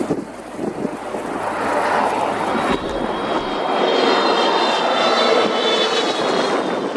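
A Boeing 777-200LR's GE90 jet engines on a landing arrival, a rising roar with a thin high whine that comes in about three seconds in, loudest around four to five seconds.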